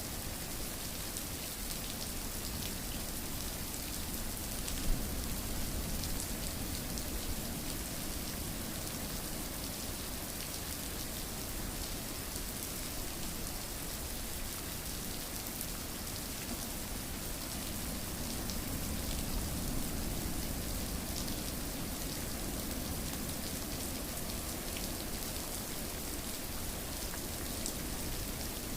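Steady rainfall, an even hiss of rain with scattered individual drop ticks, and one short sharp tick about five seconds in.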